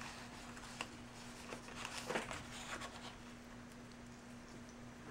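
Faint handling noises of a wristwatch and its packaging: scattered light clicks and rustles, a few more around the middle, over a steady low electrical hum.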